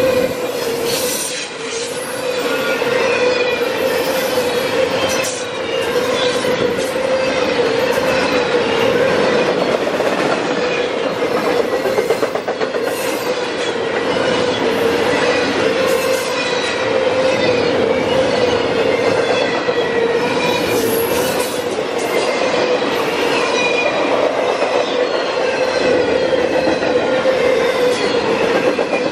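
Double-stack intermodal container cars of a freight train rolling past at speed: a steady clatter of steel wheels on the rails, with a continuous tone and a wavering higher squeal over it.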